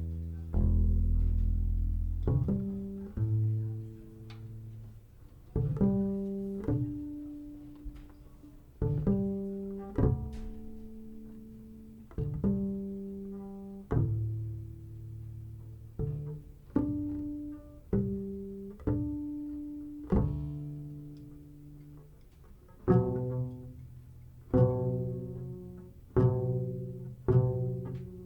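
Live jazz piano trio music: slow, separate low notes, each struck or plucked sharply and left to ring and die away, about one every one to two seconds and coming closer together near the end.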